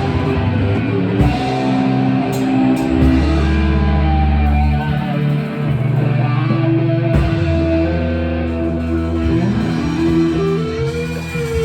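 Rock music led by guitar over long held low bass notes, with one note bent up and back down near the end.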